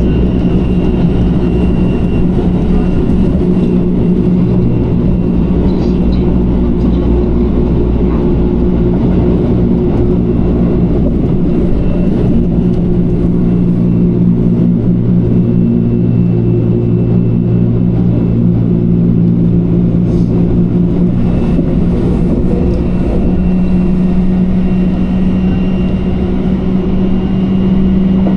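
Electric train running at speed, heard from inside the carriage: a steady rumble of wheels on rails with a low motor hum that shifts slightly in pitch.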